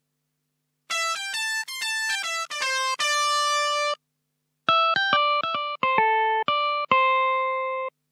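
Yamaha PSR-SX700/SX900 arranger keyboard playing a guitar-like plucked-string voice, one note at a time. Two short melodic phrases with a brief pause between them; each note in the second phrase starts sharply and fades.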